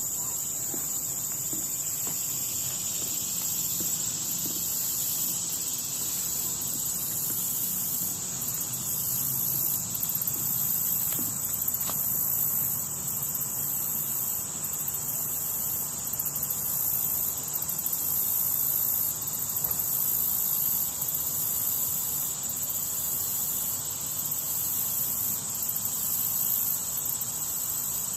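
Steady, high-pitched chorus of insects calling without a break, with a higher layer that pulses off and on every second or two.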